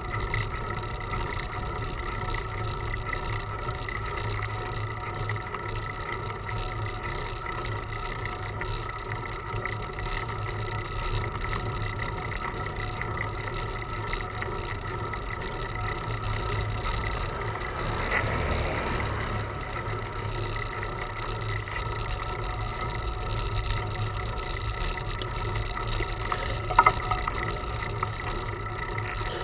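Steady wind and road rumble on a bicycle-carried camera's microphone during a road bike ride, with a brief swell a little past halfway and a short click near the end.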